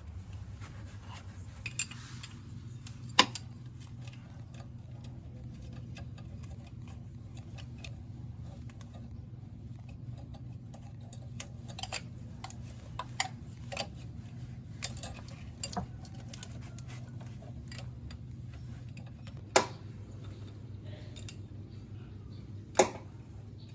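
Scattered light clicks and clinks, with three louder sharp knocks, over a steady low hum.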